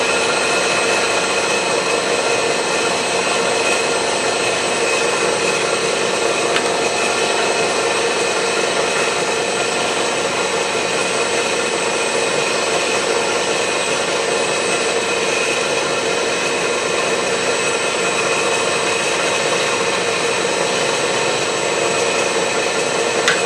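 Milling machine taking a light clean-up pass with a 3/4-inch slot drill, the cutter running nice and steady with an unbroken whine.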